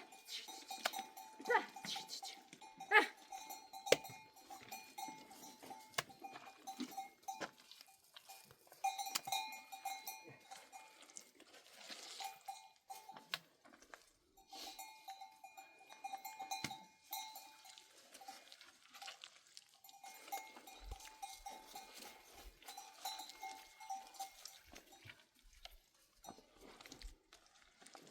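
Bells on herd animals clanking and ringing in stretches of a few seconds with short breaks, with scattered knocks and the sounds of goats or sheep.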